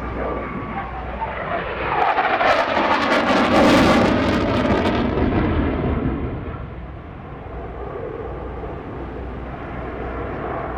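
Block 30 F-16C Fighting Falcon's GE F110 afterburning turbofan jet engine passing low and fast in a high-speed pass. It grows loudest about two to five seconds in, the tone falling as it goes by, then fades to a distant rumble.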